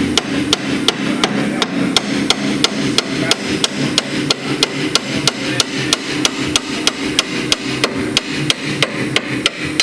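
Hammer striking metal in a steady run of blows, about four a second, knocking a car's front strut down out of its lower strut bracket until it comes free.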